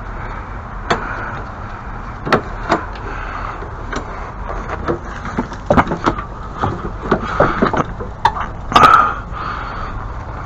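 Irregular knocks, clunks and scrapes, about a dozen, of objects being handled and moved around, with the loudest cluster near the end.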